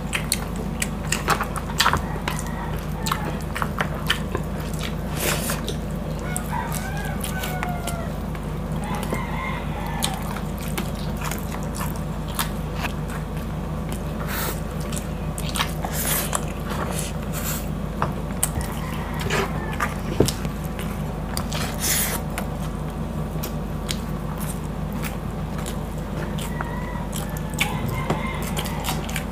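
Close-up mouth sounds of eating pork hock by hand: wet smacks, lip clicks and bites in scattered short, sharp ticks, over a steady low hum.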